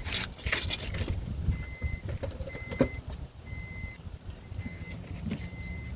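An electronic warning beeper sounds a steady high-pitched beep about once a second, each beep about half a second long, starting about a second and a half in. A few clicks and rustles of handling come in the first seconds.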